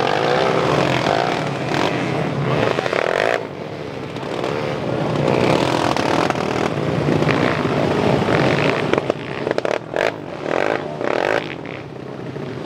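Motocross dirt bike engines revving hard, their pitch rising and falling. The sound dips and breaks up briefly near the end.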